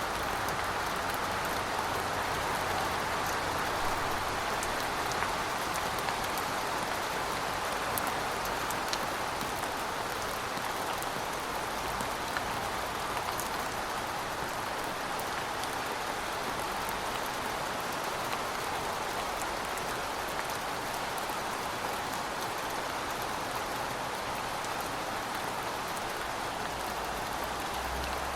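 Steady rain falling on pavement, an even hiss with scattered drop ticks.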